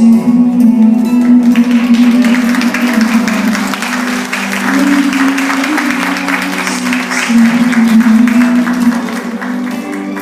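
Live band music with a held chord, and a crowd clapping over it from about a second and a half in until near the end.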